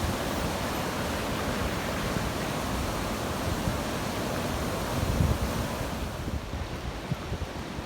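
Steady rushing noise of typhoon weather, with low gusts of wind buffeting the microphone about five seconds in; the rush eases slightly near the end.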